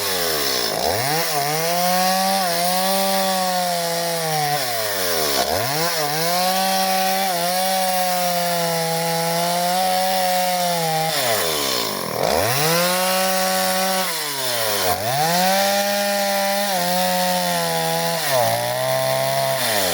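Stihl MS 170 two-stroke chainsaw running at high revs while cutting wood. Its pitch drops sharply and climbs back about five times as the throttle is let off and opened again.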